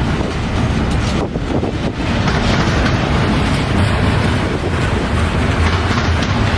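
Intermodal freight train's cars rolling past on the rails, a steady loud rumble of wheels on track.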